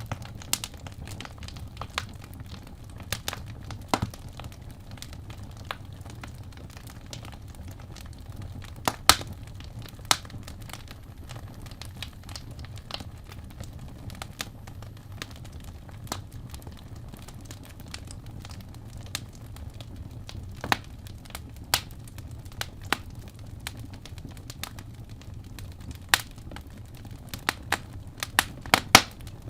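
Wood fire burning in a fireplace, crackling with irregular sharp pops over a steady low rumble; the loudest pops come about nine seconds in and again near the end.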